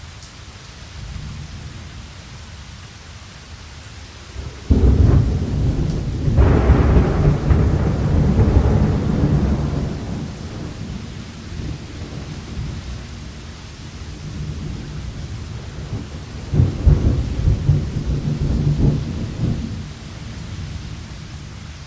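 Thunderstorm with steady rain and rolling thunder. A loud thunderclap breaks in suddenly about five seconds in and rumbles on for several seconds. A second, lower roll of thunder comes later on.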